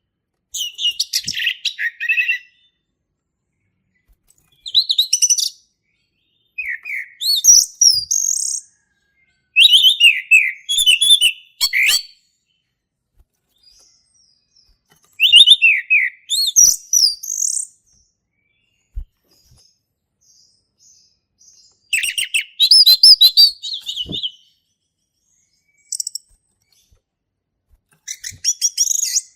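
Male orange-headed thrush singing: quick, varied phrases of whistled and chattering notes, each lasting one to two seconds, repeated with pauses of a few seconds between them.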